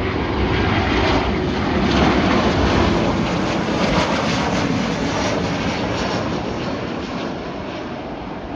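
Boeing 737-800 jet engines (CFM56-7B) as the airliner passes close by on its landing approach. The noise is loudest about two seconds in, its tone falling in pitch as it goes by, then slowly fades.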